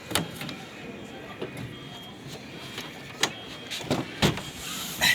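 A few irregular knocks and clicks of things being handled, the loudest about four seconds in and right at the end.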